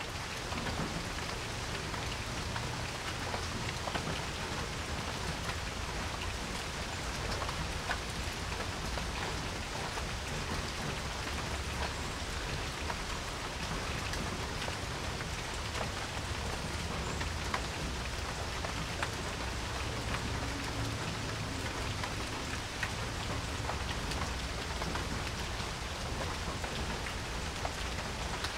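Steady rain falling on a porch, a constant hiss dotted with many small drop ticks, with a low rumble underneath.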